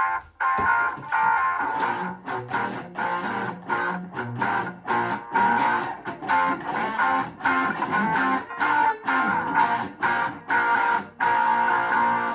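Electric guitar played over a full band recording of a rock song's instrumental intro, in a choppy rhythm with short breaks between phrases.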